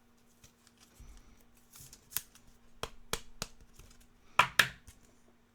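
Chrome trading cards being handled and flipped through, sliding and clicking against each other. There is a run of short clicks, then two sharper snaps in quick succession near the end, over a faint steady hum.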